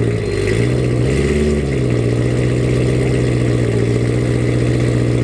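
Performance car's engine and exhaust idling steadily, with a slight wobble in pitch about a second in.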